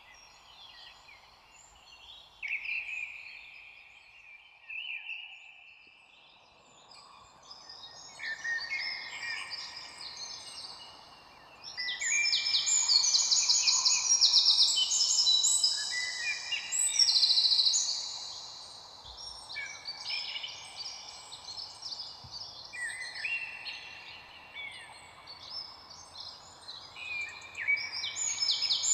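Several small birds singing and chirping at once, in overlapping quick trills and high chirps. The chorus grows busiest in the middle. A faint steady background hiss comes in about six seconds in.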